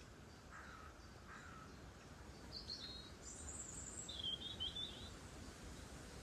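Faint wild birdsong: two short low calls in the first second, then a quick high twittering phrase in the middle, over a steady low background rumble.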